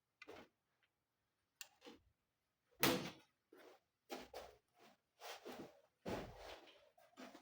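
A series of short, irregular knocks, clicks and scrapes of TV parts being handled and taken apart, the loudest about three seconds in and a longer scrape around six seconds in.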